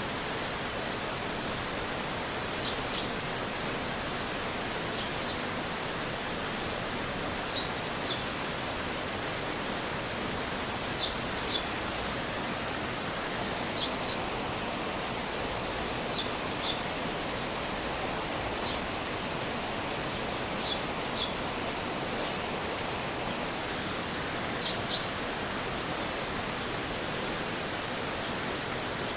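Stream water flowing steadily, with short high chirps every two or three seconds.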